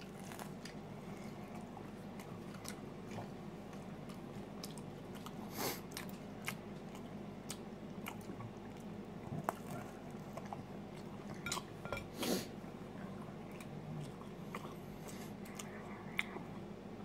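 A person quietly chewing a bite of frozen deluxe pizza, with scattered small mouth clicks, a few louder ones around the middle.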